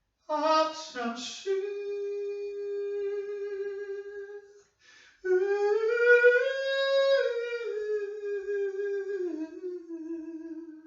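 A lone voice singing a slow, unaccompanied melody in long held notes. It opens with a few short notes, holds one long note, and after a breath sings a long phrase that rises in pitch and falls back down.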